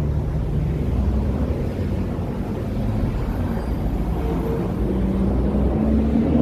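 City street traffic: the steady low rumble of motor vehicles close by, with one engine's tone rising slowly in pitch near the end as it speeds up.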